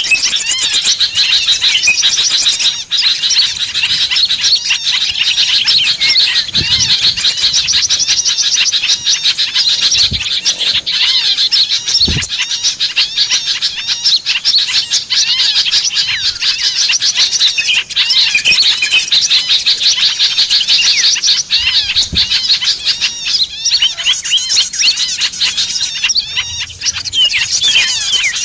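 Dense, unbroken chorus of many small birds chirping rapidly at high pitch, the kind of bird-lure (pikat) recording played to draw small birds in.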